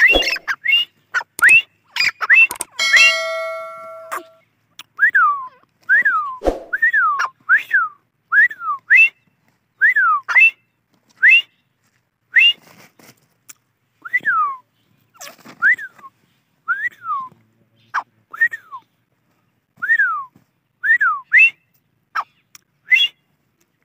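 Teetar (francolin) calling: a long run of short, loud whistled notes, each sliding up or down in pitch, about one to two a second with short gaps. A single steady whistle-like tone is held for about a second and a half near three seconds in.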